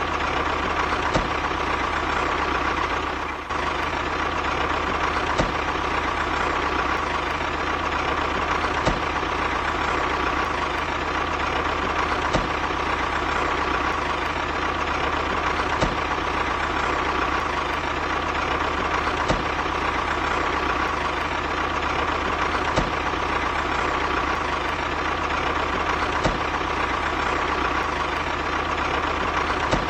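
A motor running steadily with a constant whine, and a faint click about every three and a half seconds.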